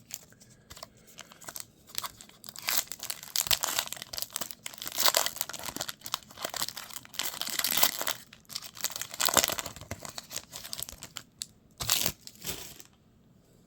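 A trading card pack wrapper being torn open and crinkled, with cards shuffled out of it, in a run of rustling bursts that stops about a second before the end.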